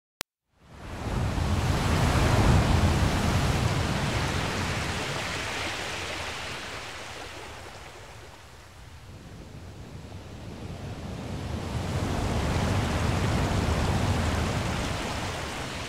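Ocean surf washing onto a shore, a steady noise without tones in two swells: the first peaks a couple of seconds in and fades, and the second builds again past the middle.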